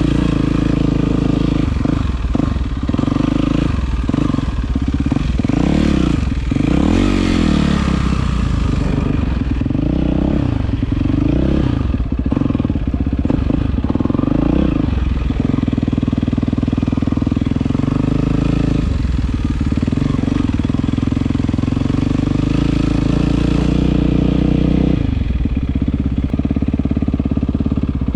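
Yamaha WR450F single-cylinder four-stroke dirt bike with an Akrapovic exhaust, revving up and down repeatedly over the first half. It then runs at a steady speed and drops to a lower pitch near the end.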